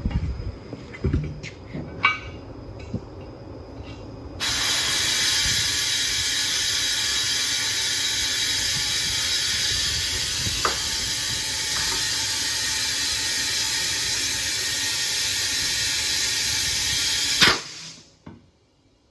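Compressed air hissing steadily into an 11R24.5 truck tire as it is inflated. The hiss starts about four seconds in, after a few light metal clanks, and cuts off sharply near the end with a short knock.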